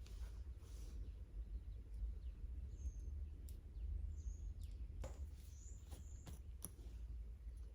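Faint clicks and rustles of small metal earrings being handled and fastened, over a steady low rumble. Several short high chirps come between about three and six seconds in.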